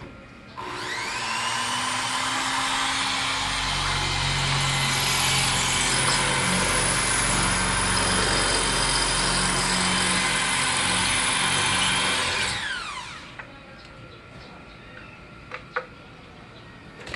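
Electric drill spinning up with a rising whine about half a second in, running at speed for about twelve seconds with a heavier rumble as it bites, then winding down with a falling whine. It is drilling a hole for a wall expansion anchor.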